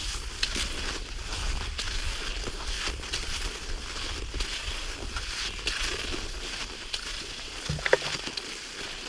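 Cross-country skis and poles crunching on cold snow in an irregular run of short crunches, with a brief squeak near the end.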